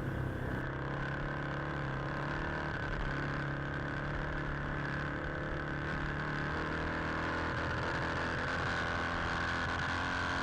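Motorcycle engines idling steadily: a constant hum that holds one pitch, with no revving.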